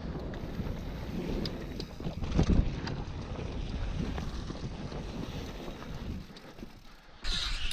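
Wind buffeting the microphone over the low rumble and scattered clicks and rattles of a mountain bike riding a dirt trail. Music cuts in abruptly near the end.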